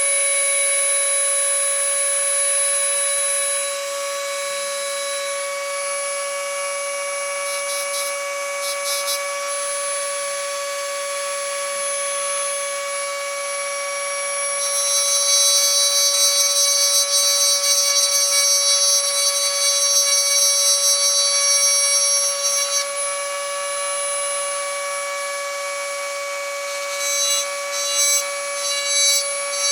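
Small high-speed rotary tool running with a steady whine while its bit grinds down hardened JB Steel epoxy putty on a plastic slot car body. The grinding gets harsher and louder from about 15 to 23 seconds in, then comes as several short touches near the end.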